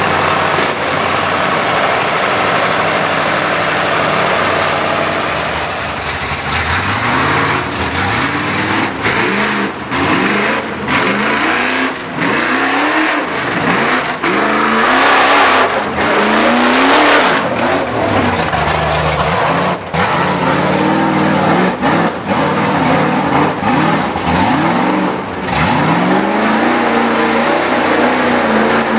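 Mud truck's engine running hard, then revved again and again with its pitch swinging up and down every second or two, as the truck sits hung up in the middle of a mud pit trying to get free.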